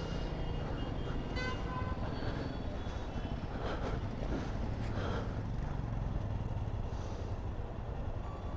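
Vehicle engines running steadily in a traffic jam, with a horn honking briefly about one and a half seconds in.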